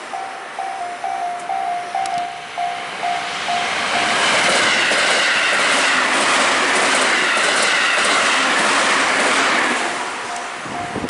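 Level-crossing warning bell ringing in a repeating two-pitch ding, then a train passes close by for about six seconds, its wheels clattering rhythmically over the rail joints and covering the bell. The bell is heard again near the end as the train clears.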